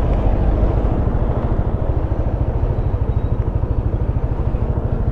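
Motorcycle engine running at low revs, with an even, rapid pulsing beat.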